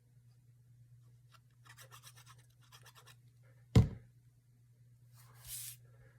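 Paper and lace being handled on a craft desk: light scratchy rustles, then one sharp knock about four seconds in as something hard is set down, and a short hissing rustle near the end, over a low steady hum.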